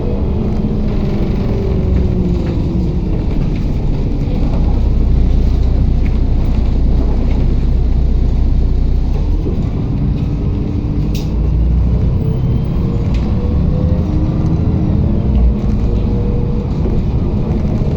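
MAZ-107.468 city bus on the move, heard from inside the passenger cabin: a steady engine and road rumble, with the engine note slowly rising and falling as the bus speeds up and slows. A single sharp click comes about eleven seconds in.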